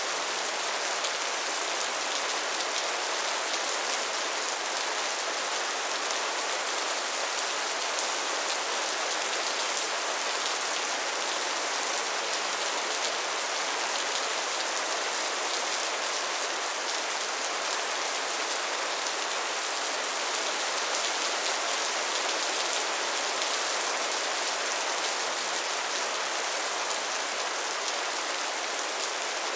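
Steady soft rain falling, an even hiss with fine patter of drops.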